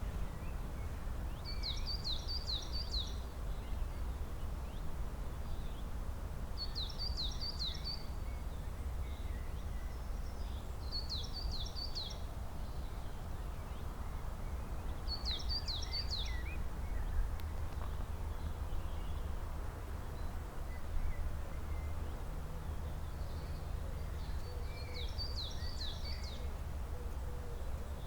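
A songbird repeats a short, quick song of four or five descending notes, five times, a few seconds apart, over a steady low background rumble.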